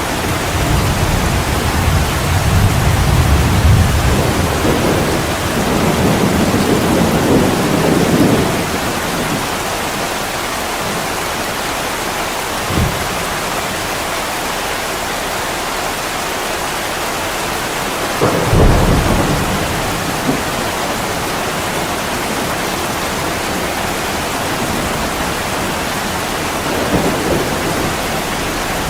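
Heavy rain pouring steadily on a window glass, with rolling thunder: a long low rumble through roughly the first eight seconds, a short sharp thud a little before halfway, and another brief rumble past halfway.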